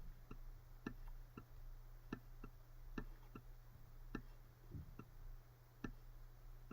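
Faint, irregularly spaced light clicks, about a dozen, of a pen tapping as it writes out an equation, over a low steady electrical hum.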